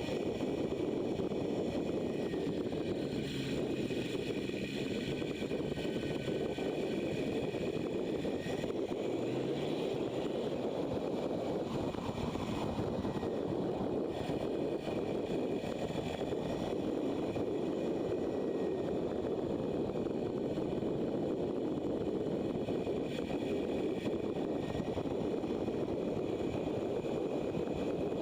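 Motorcycle engine running at road speed under a steady rush of wind on the microphone, with a brief rise in engine pitch about a third of the way in.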